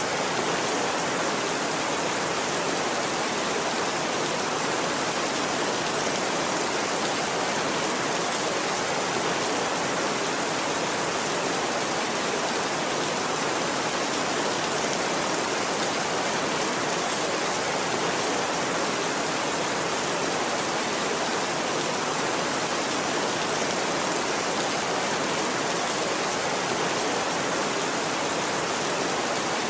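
Steady, unbroken rain: a dense, even hiss of falling rain with no rise or fall.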